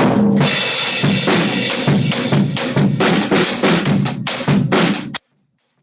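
Drum kit playing a steady beat of kick, snare and cymbals, heard through a Zoom call from a laptop's built-in microphone with original sound off. About five seconds in, the drums cut out abruptly to near silence: Zoom's background-noise suppression cancelling them.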